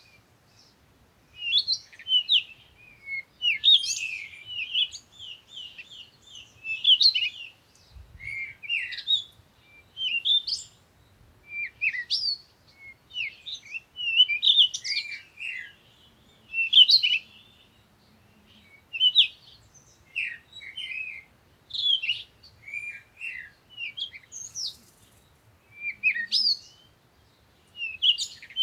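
Songbirds chirping and singing, several short bursts of quick, high chirps every second or two with brief pauses between.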